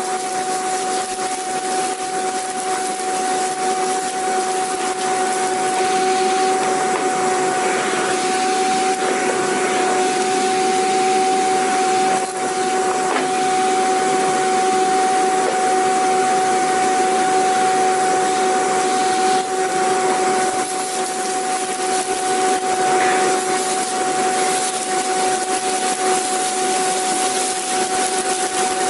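Vacuum cleaner motor running steadily: a continuous rushing hiss of air with a constant whine held throughout.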